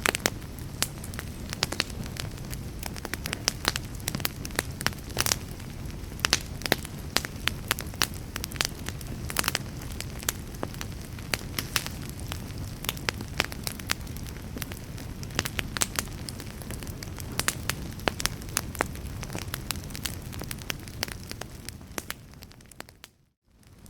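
Wood fire crackling and popping irregularly over a low, steady rumble. Near the end the sound fades out to silence for a moment and comes back in.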